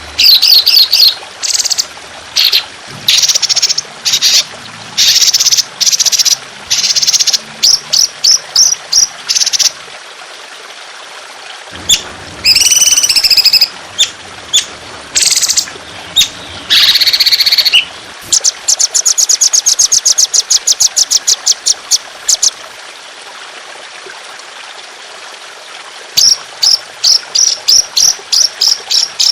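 Songbird singing loud, sharp, high-pitched phrases. It breaks into a fast trill of rapid repeated notes partway through, then a run of evenly spaced notes near the end. A steady trickle of water runs underneath.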